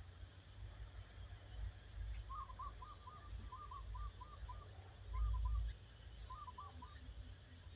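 A bird calling in quick groups of short, repeated notes at a middle pitch, with a couple of brief high chirps. A low rumble runs underneath and swells loudest a little after five seconds in.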